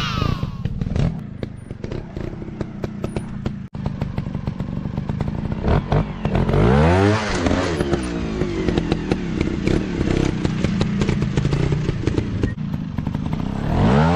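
Off-road dirt bike engine running and revving, with many short clicks and knocks throughout. About six seconds in, a sharp rev rises and falls, and another rev rises near the end.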